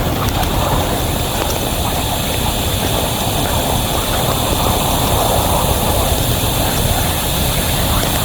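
A heavy train running by, a loud, steady rumble and rush with no change.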